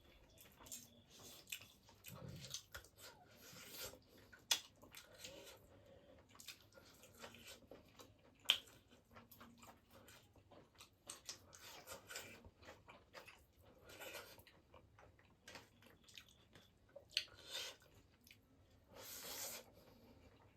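Faint close-up eating: chicken biryani being chewed, with scattered small clicks and short rustles throughout and a couple of sharper clicks about four and eight and a half seconds in.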